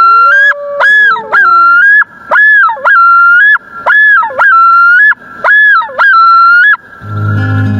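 Waterfowl honking loudly over and over, strongly pitched two-note calls about once a second. The calls stop about seven seconds in, when gentle acoustic guitar music begins.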